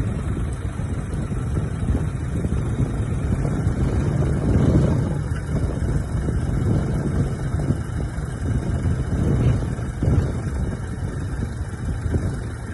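Heavy diesel engine of earthmoving machinery running with a steady low rumble, swelling louder a couple of times as it works under load.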